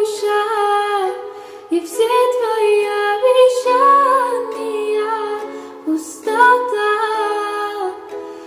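A woman singing a slow melody in long held notes, with ukulele accompaniment.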